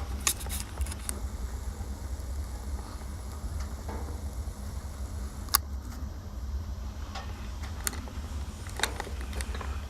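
A steady low rumble with a handful of scattered sharp clicks and knocks, the loudest about halfway through.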